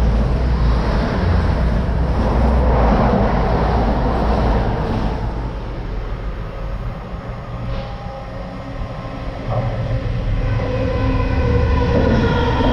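Colas Rail class 70 diesel locomotive hauling a departmental engineering train past at speed. Its engine and wagons make a loud, continuous rumble. Near the end, steady high metallic tones build up over the rumble.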